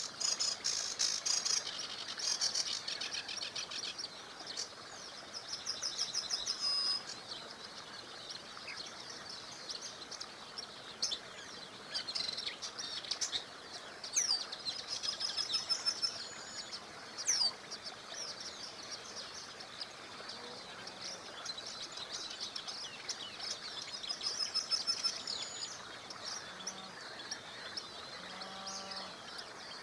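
Several songbirds singing and chirping in short, high, trilling phrases, one after another. Underneath is a faint, steady rush of a small river, and a few short, lower-pitched calls come near the end.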